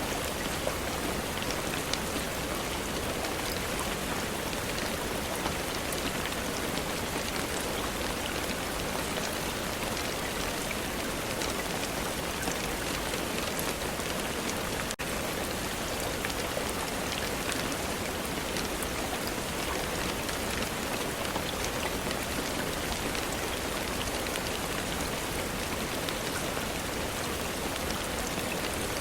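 Steady rain falling: an even hiss with scattered sharper drop ticks, and a momentary dip in level about halfway through.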